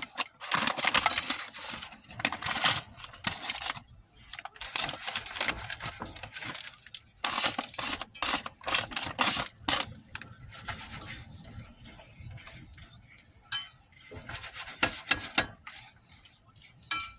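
Popcorn kernels and oil in a pot on the stove: irregular clattering against the pot for the first ten seconds or so, then a quieter sizzle with scattered ticks as the oil heats, just before the kernels begin to pop.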